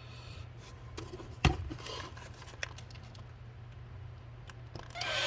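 Small clicks and taps of a tool and a plastic leaf blower nozzle being handled and lined up on a workbench, with one sharp knock about a second and a half in, over a steady low hum.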